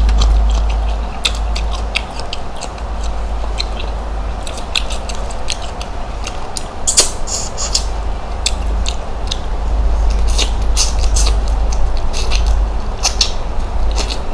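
Close eating sounds of shrimp, roasted in a coconut, being eaten: many sharp, irregular crackles and clicks of shells cracking and being chewed, over a steady low rumble.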